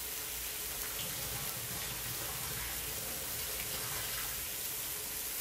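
Steady hiss of chicken breasts sizzling on a stovetop griddle, with a kitchen faucet running into the sink.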